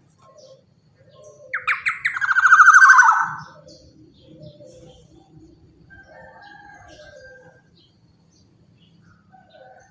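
Black-naped oriole (kepodang) giving one loud, rasping call about a second and a half in that lasts about two seconds, then softer whistled notes later on.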